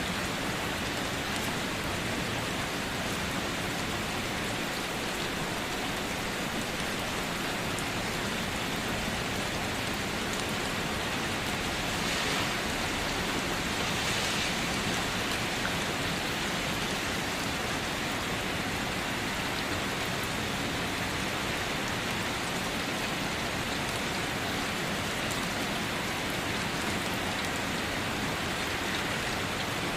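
Steady rain falling, an even hiss of many drops, briefly a little louder twice around the middle.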